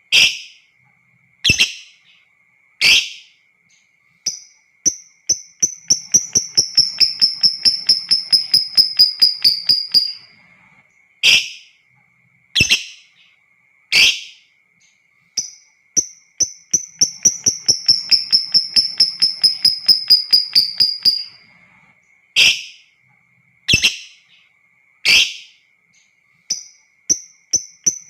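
Lovebird calling: three sharp, loud chirps about a second and a half apart, then a long, rapid rattling trill (the 'ngekek' chatter) lasting about six seconds. The pattern repeats, with another trill starting near the end.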